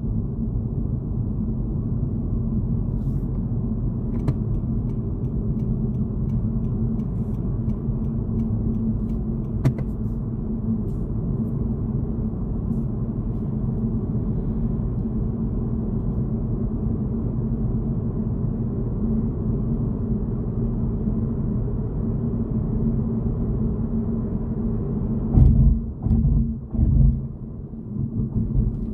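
Road and engine noise inside a moving car: a steady low rumble, with a few heavy low thumps near the end.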